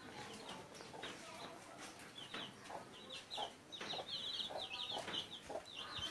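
Chickens clucking softly. From about two seconds in, a run of quick, high, short chirps repeats.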